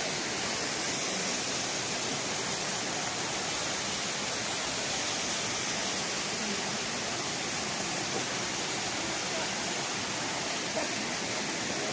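Steady rush of water from a waterfall, an even hiss-like sound that holds constant throughout.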